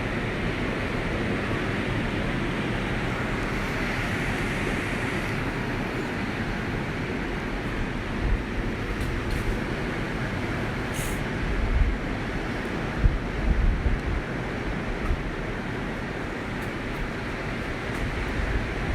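Steady wash of ocean surf and wind, with the wind buffeting the microphone in a few low thumps about halfway through.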